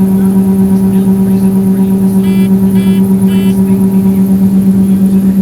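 Harvest machinery engine running steadily, a loud unbroken low hum. About two seconds in come three short beeps, roughly half a second apart.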